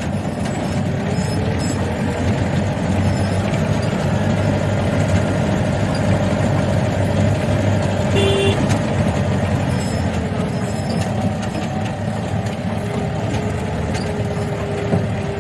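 Vintage Land Rover's engine running steadily under way, with road noise, heard from inside the cabin. A brief high tone sounds about eight seconds in.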